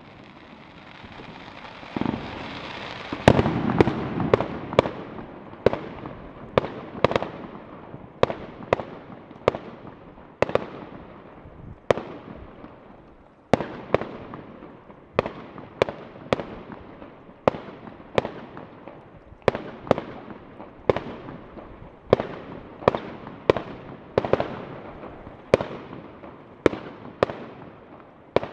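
Fireworks going off in a long series of sharp bangs, roughly one or two a second, each trailing off into a short echo, with a denser crackling stretch a few seconds in.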